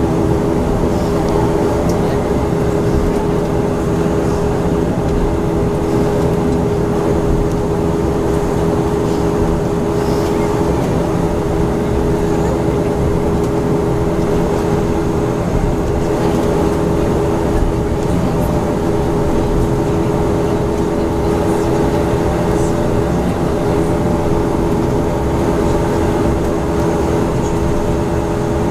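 Bombardier Q400's Pratt & Whitney PW150A turboprop engines and propellers running steadily, heard inside the passenger cabin as a loud, even drone with several steady humming tones.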